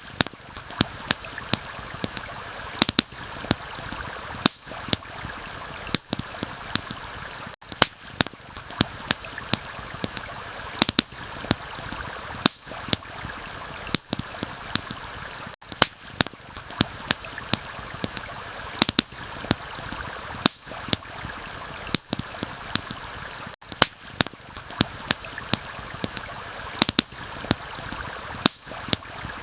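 Campfire crackling with frequent irregular sharp pops over the steady rushing of a stream. The sound drops out briefly every eight seconds or so.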